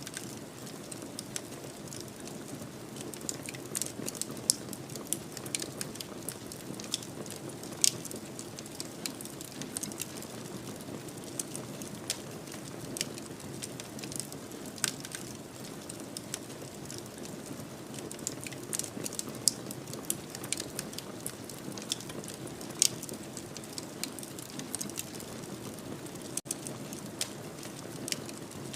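Fireplace fire crackling: irregular sharp pops and snaps, a few a second, over a steady low rush of the flames.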